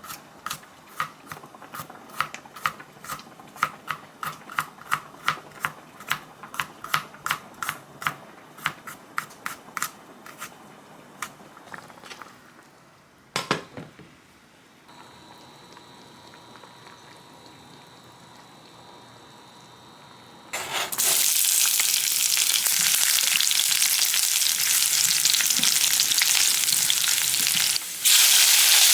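Food sizzling loudly in a hot frying pan, starting suddenly about two-thirds of the way in and breaking off briefly near the end. Before it come a long run of even, sharp knocks, about two or three a second, like a knife chopping on a cutting board, then a single knock and a faint steady high whine.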